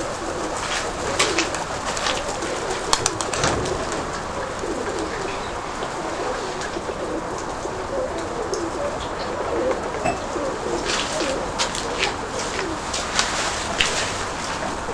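Domestic Nikolaev pigeons cooing, low wavering coos coming mostly in the middle of the stretch, over a steady rush of wind noise. A few sharp clicks stand out, around the start and again near the end.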